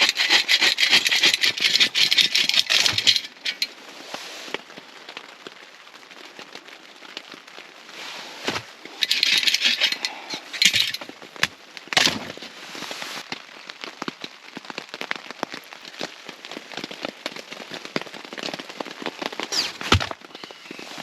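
A fire being lit in a small folding titanium tent stove: crackling and sharp snapping as the kindling catches. There are two louder stretches of rustling noise, one at the start and another about nine seconds in.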